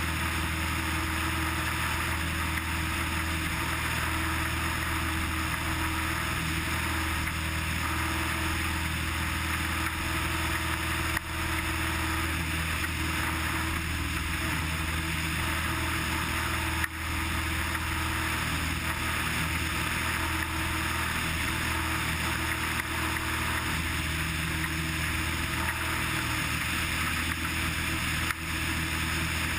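Cessna 180's six-cylinder Continental engine and propeller droning steadily in cruise flight, heard in the cabin. Three brief clicks break it: about a third of the way in, near the middle and near the end.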